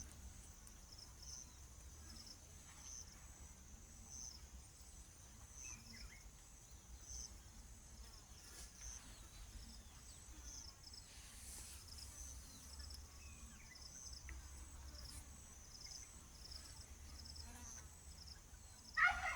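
Faint outdoor insect chorus: a high chirp repeating about every second or so over a steady high hiss. A short, louder pitched call comes near the end.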